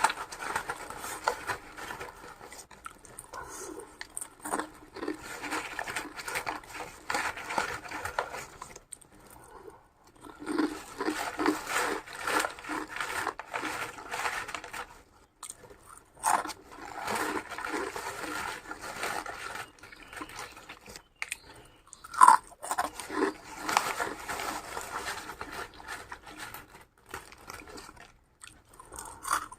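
A person eating close to the microphone: chewing and crunching in bursts of a few seconds, with short pauses between them and a sharper click about two-thirds of the way through.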